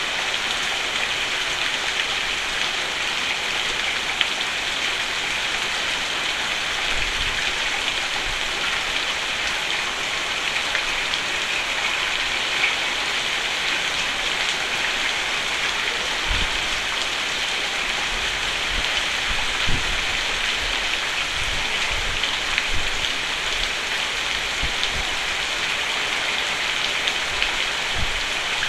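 Steady heavy rain on a roof: a dense, even hiss of drops, with a few brief low thuds now and then.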